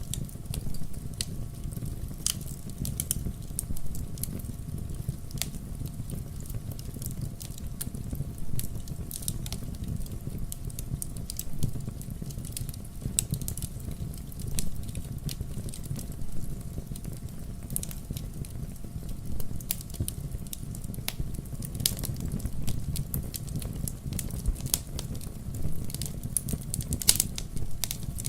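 Wood logs burning in a fireplace: a steady low rumble of flame with irregular sharp crackles and pops, a couple of them louder in the second half.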